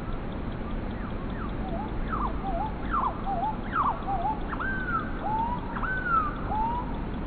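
Bird song played back slowed down, so the chirps come out as lower, drawn-out calls: a run of falling swoops with wavering tails, then longer arching whistles in the second half, over a steady background hiss.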